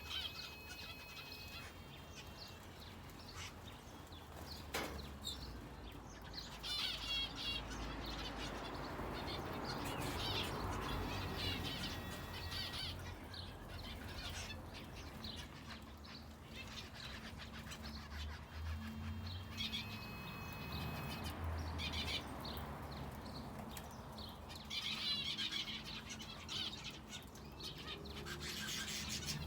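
Aviary finches and a canary chirping and twittering, short trilled calls coming again and again, with a single sharp click about five seconds in.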